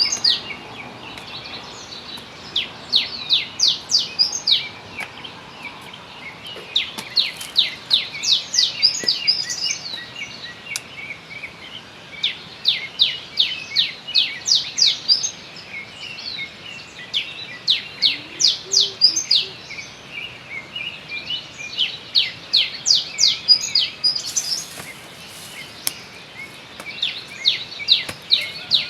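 A bird singing in repeated bouts of short, sharp, high notes, each falling in pitch and coming several a second. Each bout lasts about two to three seconds and comes back every few seconds.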